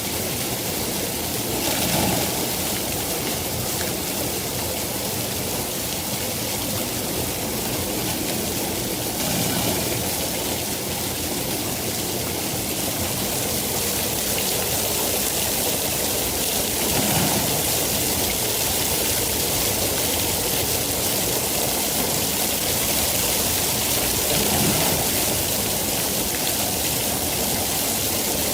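Steady heavy rain falling, a dense even hiss, with a brief louder swell about every seven to eight seconds.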